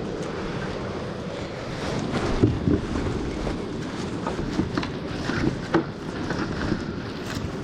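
Wind buffeting the microphone, with a few sharp knocks and clicks scattered through, the loudest about two and a half seconds in.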